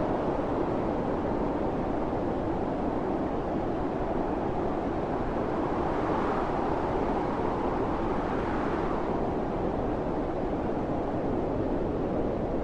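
Snowstorm wind blowing steadily, a rushing noise of air that swells slightly a couple of times.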